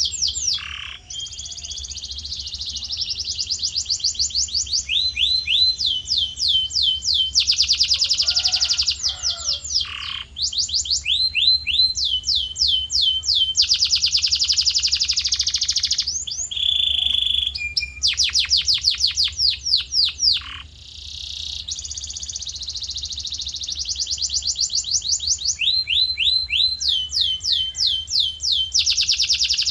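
Male canary singing continuously in long tours: fast runs of identical high, down-sweeping notes alternating with buzzy rolled trills, changing phrase every second or two.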